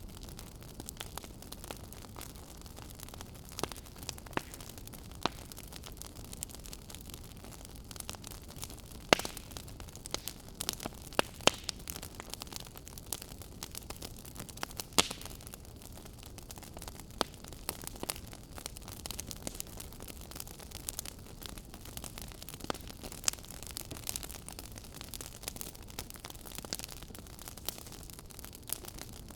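Wood fire crackling in a fireplace: irregular sharp snaps and pops over a steady low hiss, with a cluster of louder pops in the middle.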